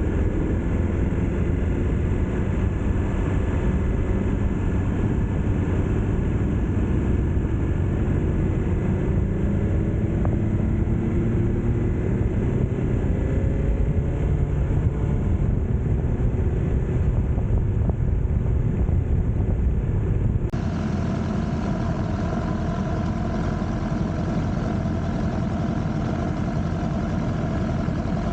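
BMW S1000R inline-four motorcycle engine under way, its pitch rising and falling with the throttle over heavy road and wind noise. About twenty seconds in, the sound changes abruptly to a steadier, quieter engine hum.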